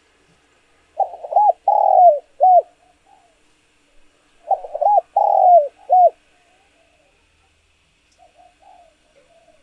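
Spotted dove cooing: two phrases of about four arched coos each, some three seconds apart, then a few faint soft notes near the end.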